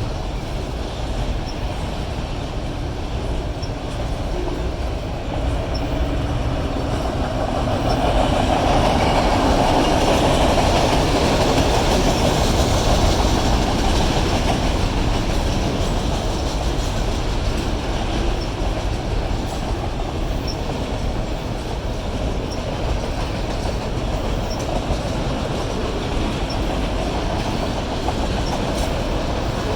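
Union Pacific freight train of autorack cars rolling past steadily, its wheels clattering over the rail joints, swelling louder for a few seconds about a third of the way through.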